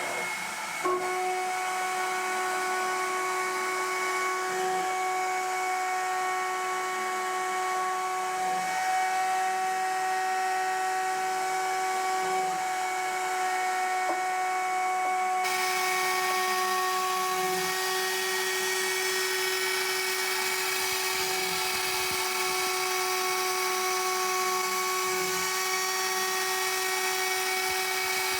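CNC mill spindle running at a steady high speed while cutting: a constant high whine with overtones. A short knock comes about a second in, and more hiss joins from about halfway.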